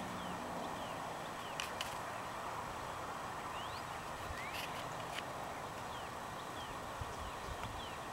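Outdoor bird ambience: a steady background hiss with many short, high chirps from small birds scattered throughout, and a few sharp clicks.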